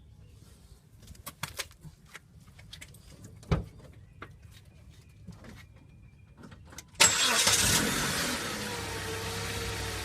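A few light clicks, and a sharper one about three and a half seconds in, then the 2007 Dodge Caliber SXT's engine starts about seven seconds in and settles into a steady idle, with a faint wavering tone over it.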